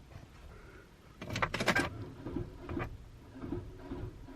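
Ignition of a car that won't start being tried: a quick cluster of clicks and rattles about a second in, then a few fainter knocks, and no engine cranking or running. The owner blames a bad alternator and a dying battery.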